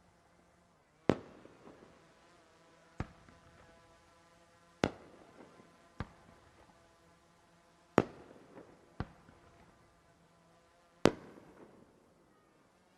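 Fireworks shells bursting overhead: seven sharp bangs one to two seconds apart, each dying away over about a second.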